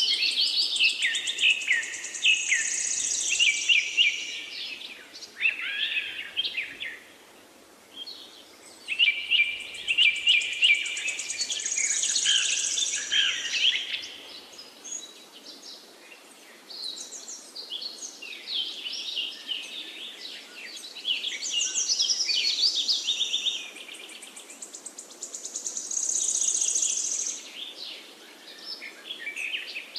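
Several songbirds singing together in a forest, in overlapping phrases of a few seconds with short pauses between. A high buzzy trill recurs about every ten seconds, over a faint steady background hiss.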